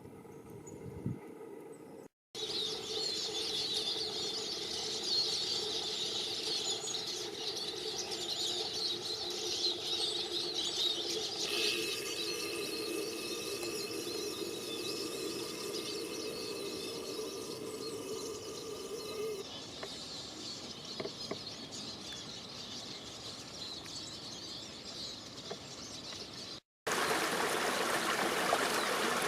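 Birds calling and chirping over outdoor ambience, in a few spliced clips. Near the end it cuts to the steady rush of a stream.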